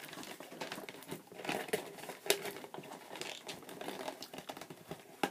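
Plastic and cardboard packaging crinkling and rustling, with irregular small clicks, as a stubborn wire twist tie is worked loose to free a die-cast toy from its box.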